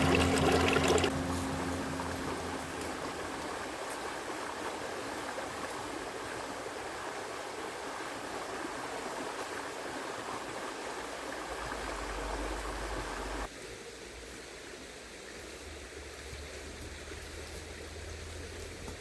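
River water flowing, a steady rush that drops suddenly to a quieter rush about two-thirds of the way through.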